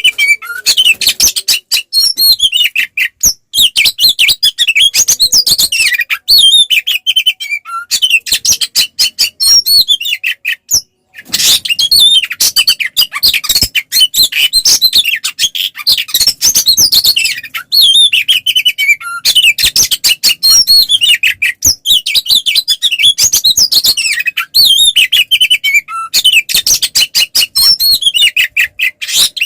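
Oriental magpie-robin (kacer) singing a loud, continuous song of fast, varied whistles and sharp clicking, chattering notes, with one brief break about eleven seconds in. This is the agitated, fighting-mode song (kacer 'ngeplong tarung') that keepers play to provoke other kacer into singing back.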